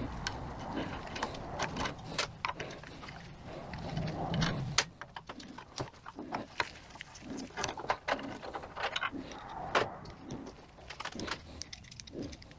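Irregular clicks and clinks of small metal parts and hand tools being handled on a workbench while a 42RE transmission valve body is taken apart.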